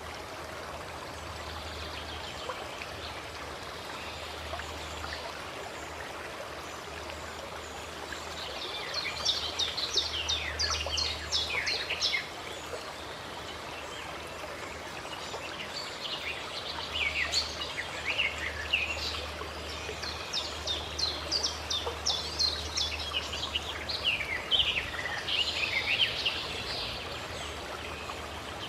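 Songbirds singing in bursts of rapid, high chirping notes, over a steady background rush of running water. The song comes in about a third of the way in and again through most of the second half.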